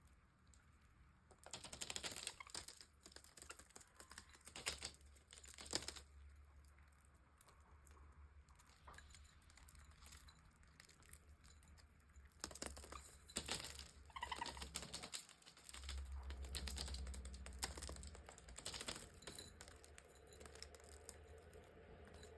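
Faint, irregular clicking, scratching and rustling from a pet budgerigar moving about, coming in clusters with quieter stretches between.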